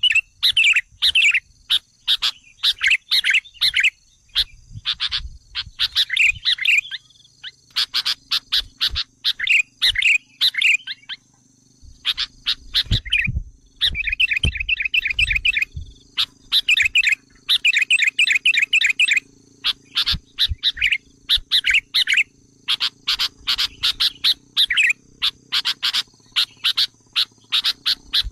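Sooty-headed bulbuls calling: rapid runs of short, chattering chirps repeated in phrases with brief pauses, the excited calls used as a lure for wild bulbuls.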